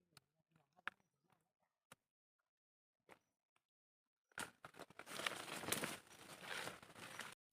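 Dry leaves and brush crackling and rustling. A few faint scattered snaps come first, then from about four and a half seconds in a dense, loud crackling starts and stops abruptly near the end.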